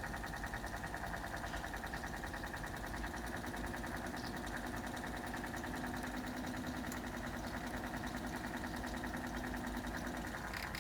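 A 1974 Zoppas Superautomatic 242 washing machine running with a steady motor hum and a fast, even pulsing, in the last seconds of its wash programme before it stops.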